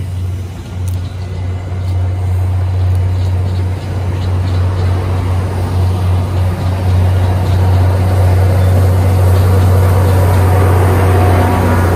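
MBTA commuter train passing close by, its coaches rolling past over the rails with a steady low diesel drone. The sound grows louder through the second half as the diesel locomotive pushing at the rear of the train comes by.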